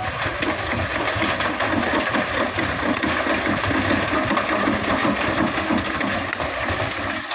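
Diesel engine of an excavator running steadily under work while loading sand, an even machine rumble with a fast rhythmic chatter.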